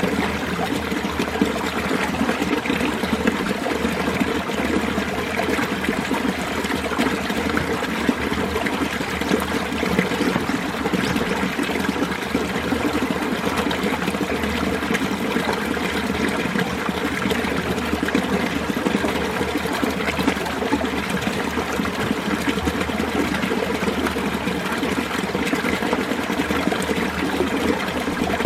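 Winter mountain-valley stream flowing, a steady, even sound of running water.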